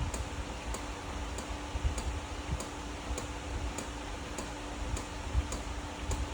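Regular light ticking, about three ticks every two seconds, over a steady low hum.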